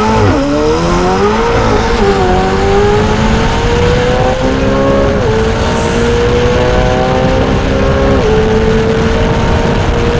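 McLaren 720S twin-turbo V8 with a Novitec exhaust pulling hard at full throttle at high speed. Its note climbs slowly through the gears, dropping at quick upshifts about five and eight seconds in.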